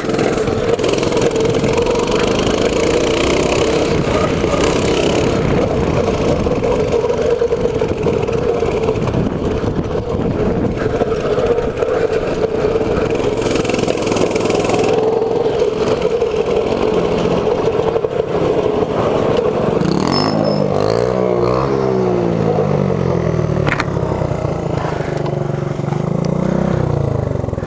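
Mini bike engine running steadily under way over rough ground, with clattering from the unsprung bike. About twenty seconds in, the engine revs up and down several times as the throttle is worked, then rises again near the end.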